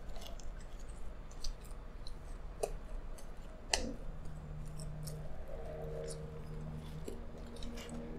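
Close-miked chewing of pizza crust: wet mouth clicks and smacks at irregular intervals, with one sharper smack a little under four seconds in.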